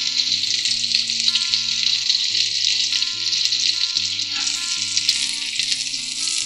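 Potato and chana dal kababs, coated in egg and breadcrumbs, sizzling steadily as they shallow-fry in oil in a black pan over low heat.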